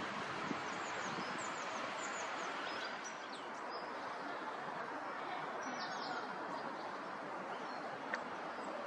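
Small birds chirping: many short, high, falling calls, thickest in the first three seconds, over a steady background noise.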